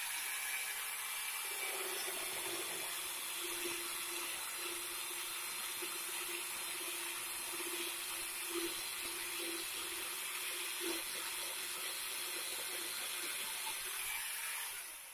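Angle grinder fitted with a mini chainsaw attachment running free, not in the wood: a steady high whine over a hiss, quieter than the cut just before. The sound dies away near the end.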